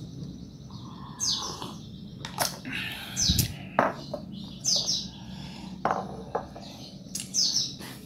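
A bird chirping several times, short high downward-sweeping chirps a second or two apart, with a few soft clicks and a low knock in between.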